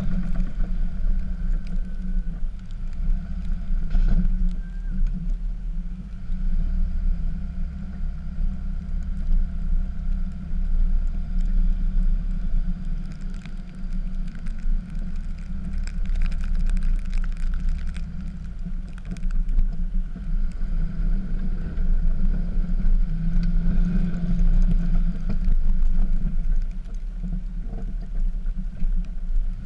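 Cummins inline-six turbo-diesel of a Dodge pickup running under varying load while plowing snow: a continuous low rumble that swells and eases every few seconds.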